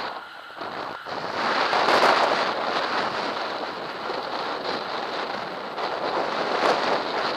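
Wind buffeting the camera microphone: a loud, steady rushing noise that swells about two seconds in and again near the end.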